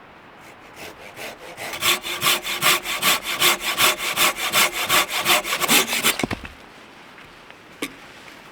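Folding hand saw cutting through a piece of wood in quick, even back-and-forth strokes, about three a second. The strokes start softly, then stop about six seconds in, followed by a single short knock.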